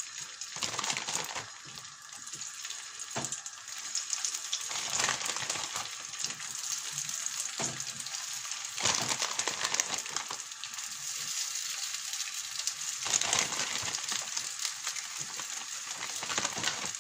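Chicken nuggets sizzling in hot sunflower oil in a frying pan. The frying hiss swells several times as more nuggets are laid into the oil.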